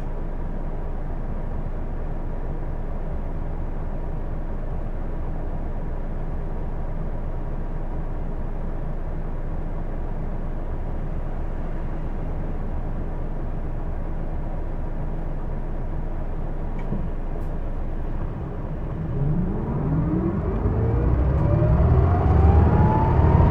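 Hino Blue Ribbon II city bus heard from inside, its engine running steadily at low speed with a faint steady whine. About 19 s in the bus pulls away: the engine and drivetrain rise in pitch and grow louder. This bus is known to its rider for an abnormal running noise.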